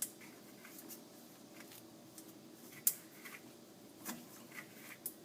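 Faint, scattered clicks and light metallic knocks from an oil filter wrench being handled on a loosened spin-on oil filter. The loudest knock comes about three seconds in.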